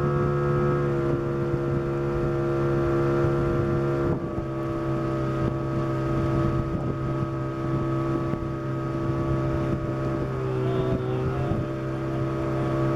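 Motorboat engine running at a steady speed, its pitch dropping slightly about four seconds in.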